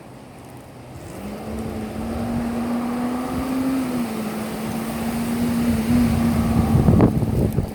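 Garbage truck's diesel engine at low idle, revving up about a second in and holding at higher revs, with a few sharp metal clanks near the end.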